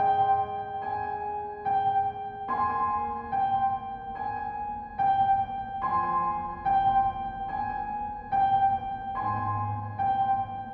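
Background piano music: a repeated high note pulsing about once a second over slowly changing chords.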